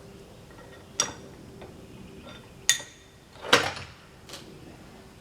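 A few separate metal clanks and knocks as parts are handled and set in place on a sawmill carriage: a ringing clank a little under 3 seconds in, and the loudest knock just after.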